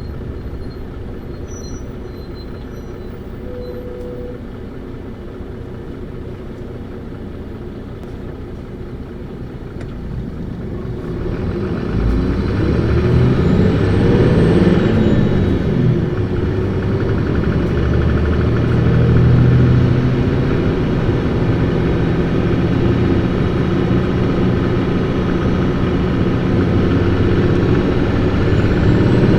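Diesel engine of an Isuzu PKG-LV234Q2 city bus, a 2008 model, running quietly at first. About eleven seconds in it is pushed hard: the engine note climbs in pitch as the bus accelerates, then holds loud and steady at high revs.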